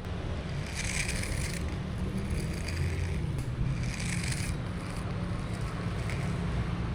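A cat crunching dry food in four short bouts, over a steady low rumble.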